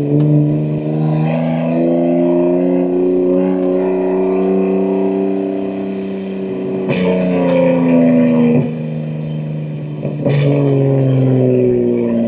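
BMW M2 G87's S58 twin-turbo straight-six, running through catless downpipes and an equal-length mid pipe, pulling steadily with its pitch slowly rising. From about seven seconds in, the note shifts and falls away in steps, with a few sharp cracks along the way.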